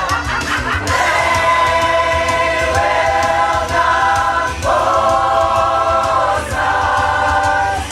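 Choir singing held wordless chords over an accompaniment with a steady low beat, the chord changing every second or two.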